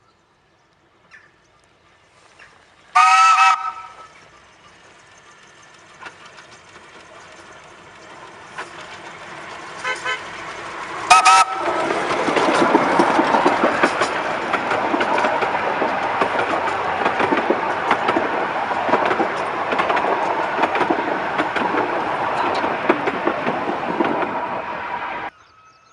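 Miniature railway train sounding two short toots, then running past close by. Its rattling noise builds and stays loud, then cuts off abruptly near the end.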